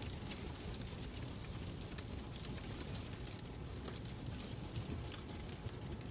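Fireplace fire burning: a steady low rumble with scattered small crackles and pops.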